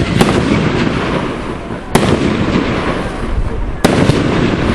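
Fireworks display: three sharp bangs of shells bursting, about two seconds apart, over a continuous din of further bursts.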